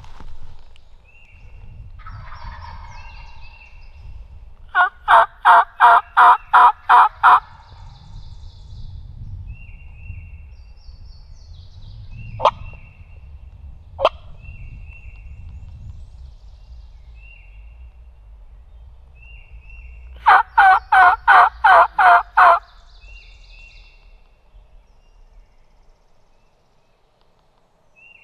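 Two series of hen turkey yelps, about eight evenly spaced loud notes in each, roughly three a second, with two sharp clicks in between. The yelps fit a hunter calling to draw in a gobbler.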